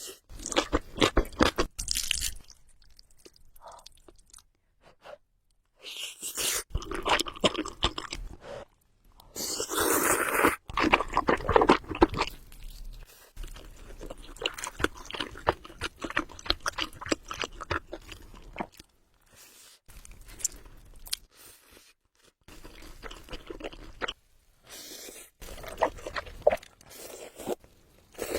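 Close-miked eating sounds of spicy Buldak noodles: wet bites and chewing full of crisp little crunching clicks. They come in bouts with brief pauses between them, and the densest stretch is about ten seconds in.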